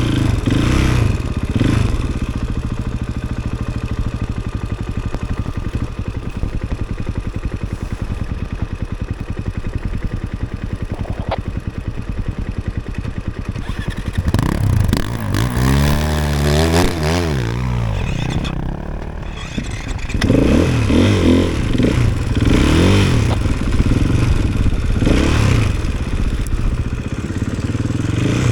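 Snowbike's 450 cc four-stroke single-cylinder engine running under way: steady at first, then revving up and down repeatedly as the throttle is worked, about halfway through and again through the last third.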